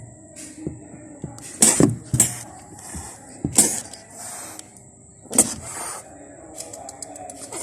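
Kitten hissing and spitting in about four short, sharp bursts spread over several seconds.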